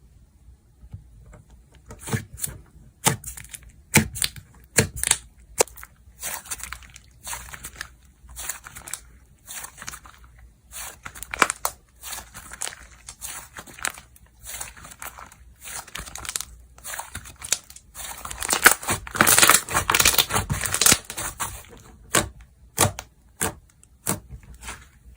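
Slime being squeezed, pressed and stretched by hand, making sharp pops and crackles. A dense run of crackling comes about two-thirds of the way through.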